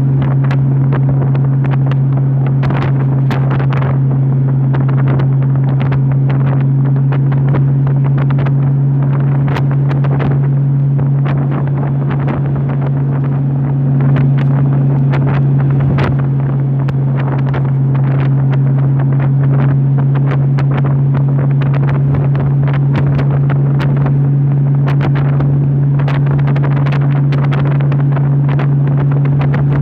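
Honda motorcycle engine running at a steady pitch while cruising at about 60 mph, with wind rushing and buffeting against the microphone.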